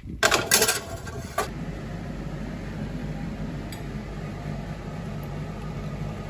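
A few sharp clattering knocks in the first second and a half, then a steady low mechanical hum of a running motor or appliance.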